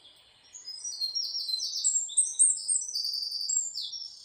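A songbird singing: a string of high chirps and quick trills of repeated notes, starting about half a second in.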